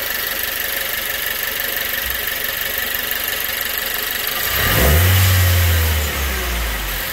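Nissan Juke Nismo RS's 1.6-litre turbocharged four-cylinder engine idling, then revved once about four and a half seconds in. It holds the higher revs for about a second and a half before dropping back toward idle.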